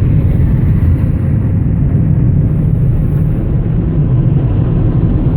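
Automatic car wash blower dryers running, a steady rushing roar heard from inside the car's cabin, deepest in the low end.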